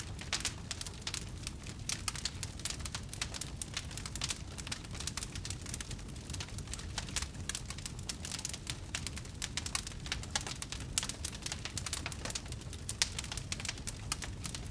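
Wood fire crackling in a fireplace: a dense run of small sharp crackles with a few louder pops, over a steady low rumble of the flames.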